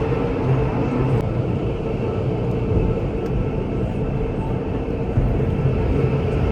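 Steady mechanical rumble of a moving vehicle, with a constant low hum throughout.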